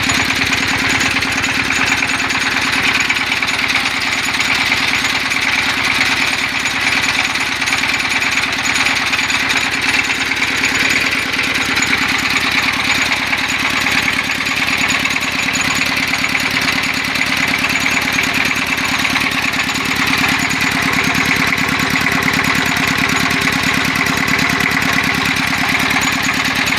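Dongfeng agricultural diesel engine idling, with a steady, even beat and no change in speed.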